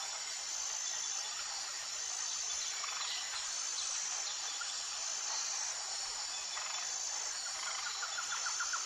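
Insects, crickets, chirring steadily in a high continuous drone, with a rapid pulsing trill starting near the end.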